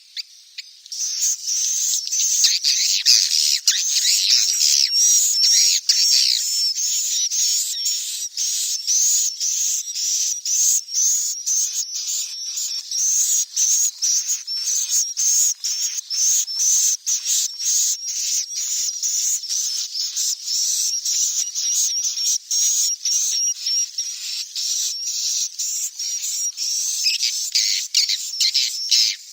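Swiftlet chicks calling: a continuous, rapid run of high, thin chirps, several a second, starting about a second in. This is the kind of swiftlet-house lure call that is played to draw edible-nest swiftlets in to roost.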